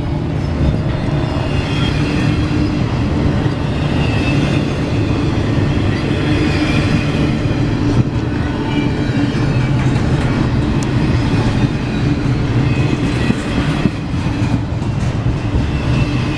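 Freight train cars rolling past close by: a steady rumble of steel wheels on rail, with faint wheel squeal now and then.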